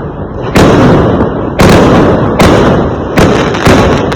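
Fireworks exploding: five loud bangs at uneven intervals, each trailing off in a rumble that runs into the next.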